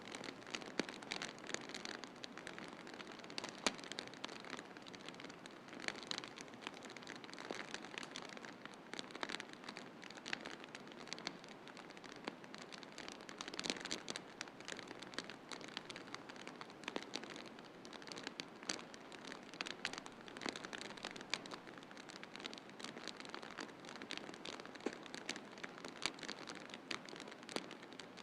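Wood fire in a fireplace crackling, with frequent irregular sharp pops and snaps over a steady hiss.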